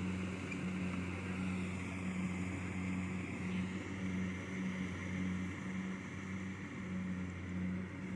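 Kubota DC70 Plus combine harvester's diesel engine running steadily with a constant hum while cutting rice.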